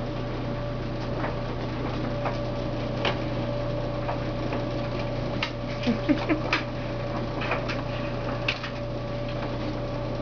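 Kittens playing with a toy: scattered light clicks and taps at irregular intervals, with a few short sounds clustered about six seconds in, over a steady low hum.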